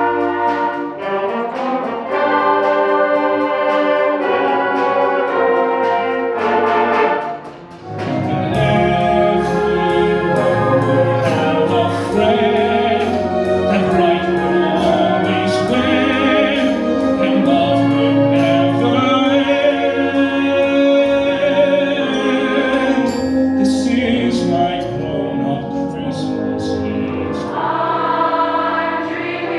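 School band and choir holiday music: brass-heavy ensemble playing, with singing voices. About eight seconds in the sound drops briefly and a different piece begins, and it changes again near the end.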